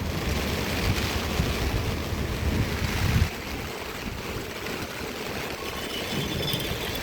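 A flooded river rushing past in a steady roar of fast water. For the first three seconds a heavier low rumble, like wind buffeting the microphone, lies over it and then drops away suddenly.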